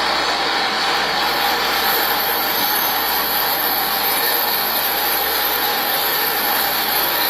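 Steady running noise inside a moving SkyTrain car, with a thin high whine that comes in about a second in and holds.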